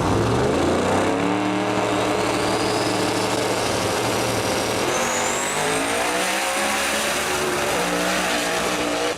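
Drag race car running at full throttle on a pass, a loud, steady engine note that shifts pitch a couple of times, with a high whine rising over it partway through.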